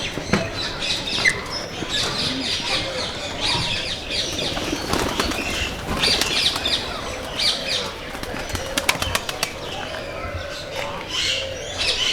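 Aviary birds chirping and calling, with wings flapping. A quick run of sharp clicks comes about nine seconds in.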